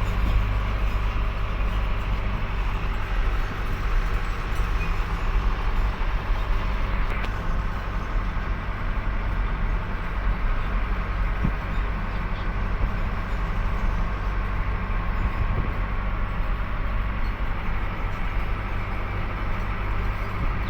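Truck running steadily with a continuous low drone of engine and road noise.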